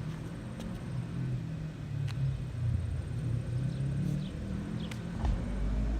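Yamaha R3's parallel-twin engine running at low revs, a steady low rumble.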